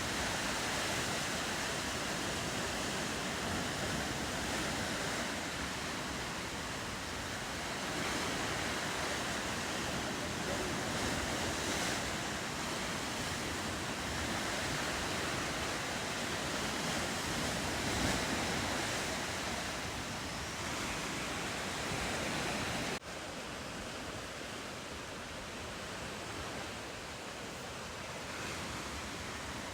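Ocean waves and surf, a steady rushing wash that drops suddenly to a quieter level about three quarters of the way through.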